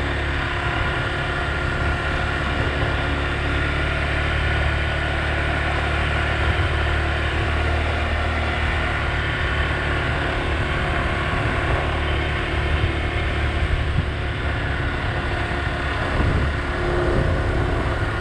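Motor scooter running steadily while under way, a low rumble holding one even level.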